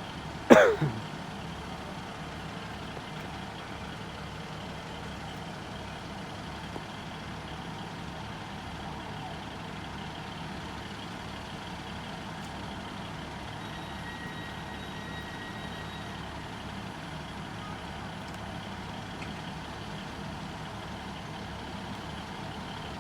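Steady low rumble of a running engine, with a brief loud falling whoosh about half a second in.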